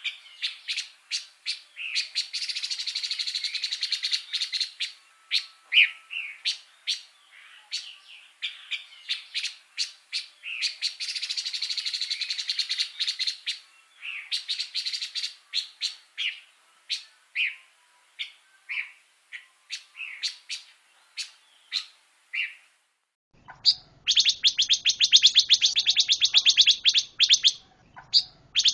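Pancawarna songbird in full song: sharp separate chirps broken by long, dense, rattling phrases of a few seconds each. About 23 s in the recording cuts, after a brief silence, to a fast, even, rapid-fire trill over a faint low hum.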